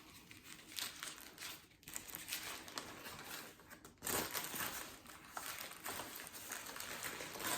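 Paper wrapper of a takeout wrap being crinkled and handled, in irregular crackles that grow louder about halfway through.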